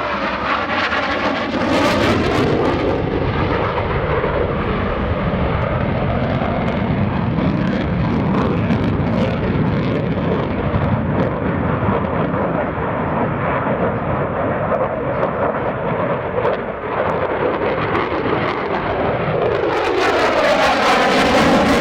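F-16C fighter jet's engine, loud and continuous as the jet flies its display, with a sweeping, phasing change in pitch as it passes near the start and again near the end.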